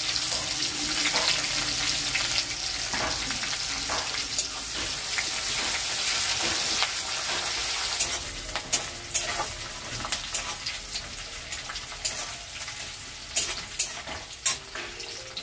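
Sliced onion, garlic and whole garam masala spices sizzle steadily in hot oil in a metal kadai, the sizzle thinning a little toward the end. A metal spatula stirs them, scraping and tapping against the pan, more often in the second half.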